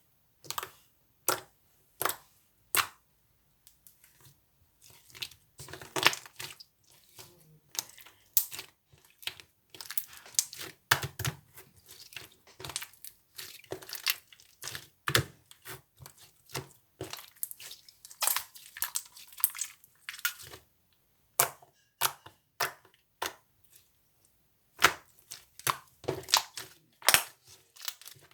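Something being mixed by hand, giving irregular sharp crackles and clicks: a few at a time at first, denser and more continuous through the middle, with short pauses.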